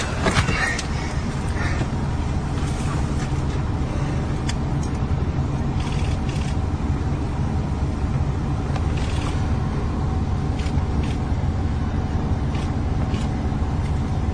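Car engine running with a steady low rumble, heard from inside the car's cabin, with a faint steady hum and a few light ticks.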